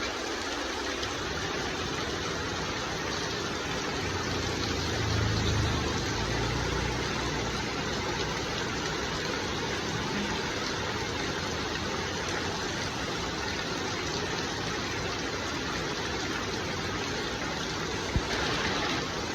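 Water spraying steadily in a fine shower as a rain bath for a myna, with a low hum swelling a few seconds in and one sharp click near the end.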